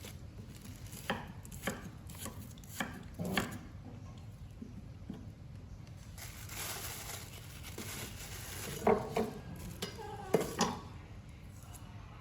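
Irregular sharp knocks and clatters, a few at a time, like dishes or utensils being handled. The loudest come in a cluster of three near the end.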